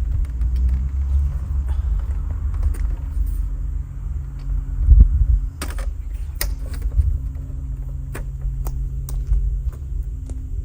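Metal motorcycle paddock stand being fitted under the bike: a heavy thump about five seconds in, then a run of sharp knocks and clicks, over a steady low rumble and hum.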